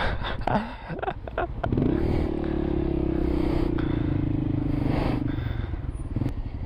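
Motorcycle engine running with an even low pulse, with a few sharp clatters in the first second and a half. About two seconds in, a loud steady tone rises and holds for about three and a half seconds before stopping.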